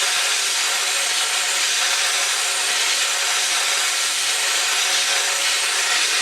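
A workshop tool running steadily: an even, unbroken hissing and rubbing noise with a faint hum underneath.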